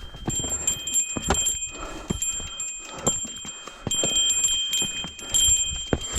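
Irregular knocks and rattles from a mountain bike being pushed and bumped over a rough trail. Steady high ringing tones sound over them and come and go.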